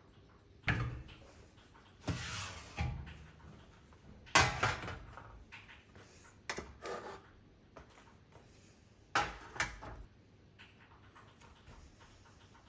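A string of scattered knocks and clattering handling sounds, about seven, the loudest about four seconds in, the sort made by opening and closing doors or drawers and moving things about in a small room.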